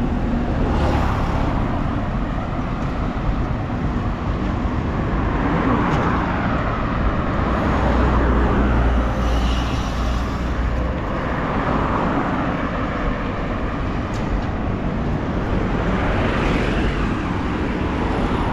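Road traffic noise: vehicle engines and tyres on a busy street, a steady low rumble with a few swells as vehicles go past.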